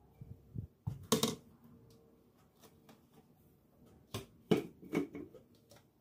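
Household objects being handled and set down in a kitchen: a few sharp clicks and knocks, a cluster about a second in and another about four to five seconds in, with quiet room tone between.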